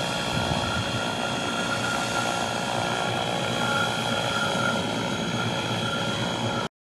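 Align T-Rex electric radio-controlled helicopter in flight: a steady rotor noise with a constant high whine from the electric motor and drive. The sound stops abruptly near the end.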